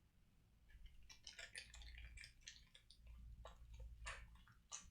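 Faint crinkling and crackling of a plastic snack wrapper as an individually wrapped pineapple financier cake is opened: a scatter of short, irregular crackles over a low hum.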